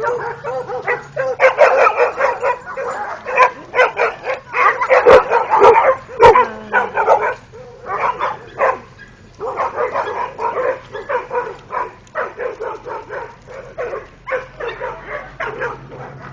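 Several dogs barking in quick, overlapping barks, with a lull of about two seconds just past the middle before the barking starts up again.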